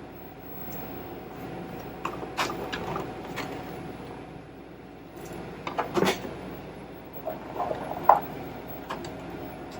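Kitchen clatter: a few scattered knocks and clanks of pots and utensils, the clearest about two and a half, six and eight seconds in, over a steady background hum.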